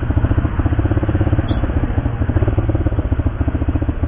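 Motorcycle engine running at low revs, a steady low rumble with a rapid, even pulsing beat.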